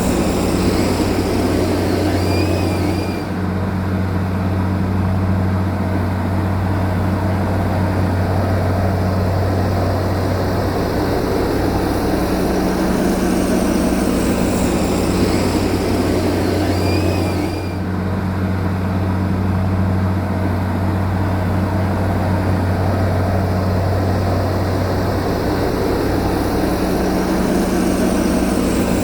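A heavy machine's engine runs at a steady, droning hum. Twice, about fourteen seconds apart, there is a brief high chirp, and the sound repeats as if looped.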